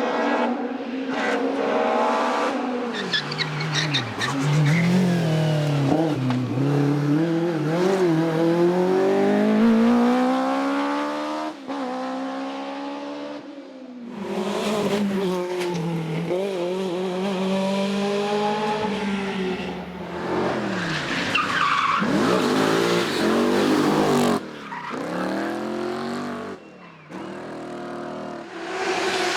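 Hillclimb race car engines revving hard and accelerating up through the gears, one long rising pull then shorter revs and gear changes, in several short clips cut together, with tyres squealing.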